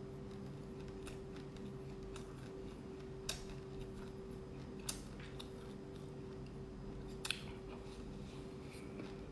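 Sparse sharp crackles of black sesame seeds crunching between the teeth while being chewed, three louder ones about three, five and seven seconds in, over a steady hum.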